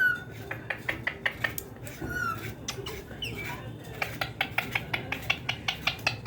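A pet parrot gives a couple of short whistled chirps, then a quick run of sharp clicks, about four or five a second.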